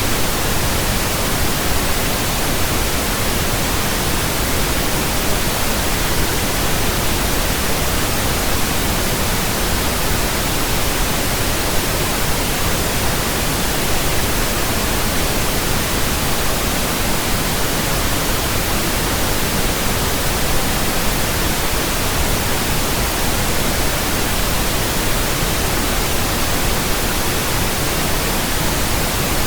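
Steady pink noise: an even, unbroken hiss spread across the whole range from deep rumble to high treble, made by a pink noise generator as a burn-in signal for new speakers and earphones.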